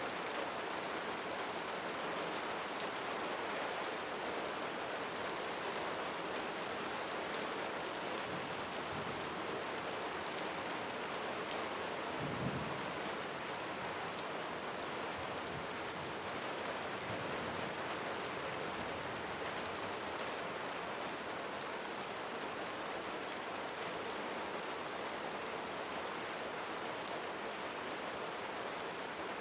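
Steady rain falling on leaves, an even patter of many drops, with one soft low thump about halfway through.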